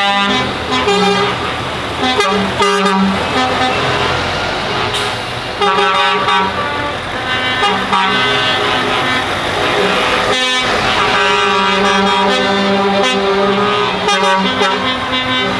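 Lorries in a convoy sounding their horns in long, overlapping blasts over the noise of their engines.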